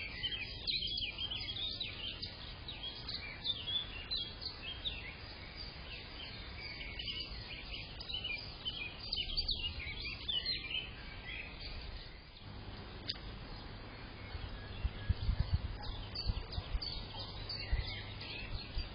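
Many small birds chirping and twittering, the calls dense for the first ten seconds or so and sparser after that, over a steady low background rumble.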